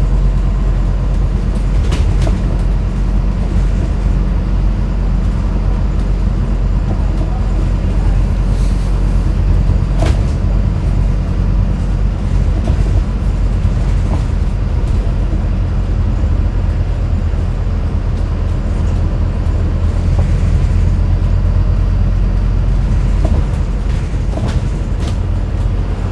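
Scania N250UD double-decker bus heard from the top deck: a steady low engine drone and road noise, with a few sharp rattles or knocks from the bodywork scattered through.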